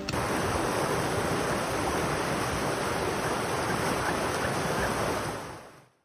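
Steady rain, an even hiss of falling water that fades out near the end.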